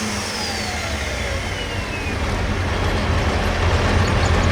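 A pulling tractor's engine has just been shut down: a whine falls steadily in pitch over about two seconds as it winds down. A low engine rumble runs underneath and grows louder toward the end.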